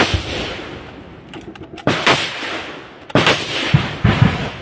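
Gunfire: a string of sharp shots, one at the start, two about two seconds in, and a quicker cluster of four or so in the last second and a half, each trailing off in a long echo.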